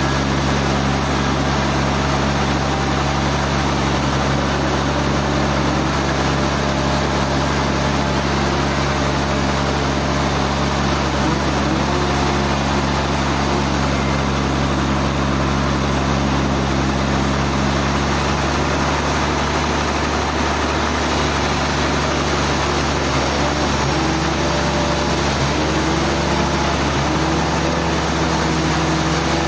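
Sawmill machinery running steadily: a constant engine hum under a haze of mechanical noise. Its low tones shift slightly about two-thirds of the way through.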